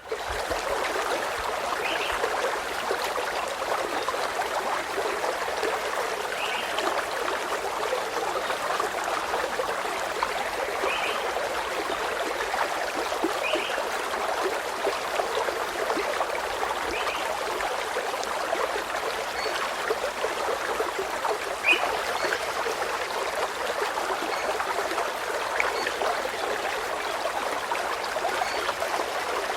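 Running water trickling steadily, with a short bird call every few seconds and fainter, higher chirps in the second half.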